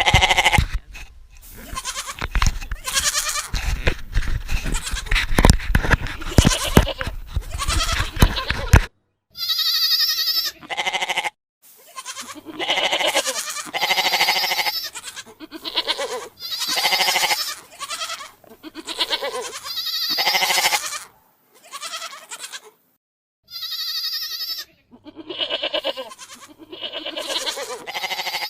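Goats bleating over and over, each bleat about a second long. A low rumbling noise lies under the calls for roughly the first third. After that the bleats come one after another with short silent gaps between them.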